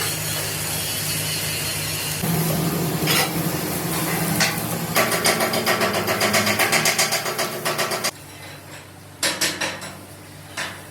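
Workshop machine noise: a steady mechanical running sound, then a run of rapid repeated knocks, about four a second, that stops abruptly, followed by a few separate knocks.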